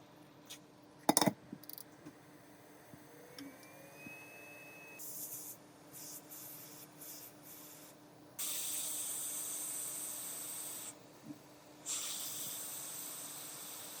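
A steady high hiss that switches on abruptly about eight seconds in, cuts out for about a second and comes back, after a few shorter bursts of hiss; a sharp loud click about a second in.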